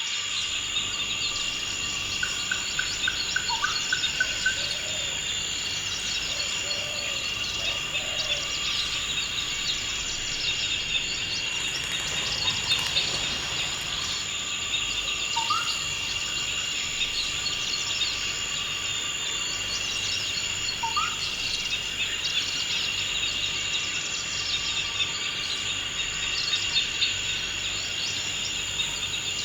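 Steady, high-pitched chorus of insects trilling at several pitches at once. Short bird calls sound over it: a quick run of notes a few seconds in, and single rising whistles about halfway and two-thirds of the way through.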